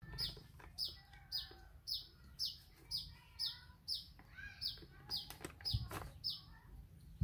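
A bird calling over and over: a short high chirp that slides downward, about two a second. A sharp knock comes near the end.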